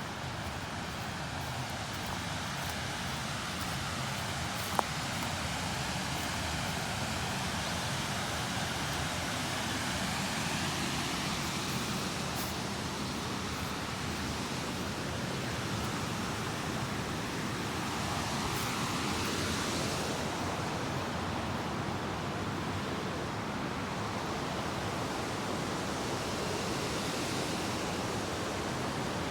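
Steady outdoor rushing ambience that slowly swells and eases a couple of times, with a single sharp click about five seconds in.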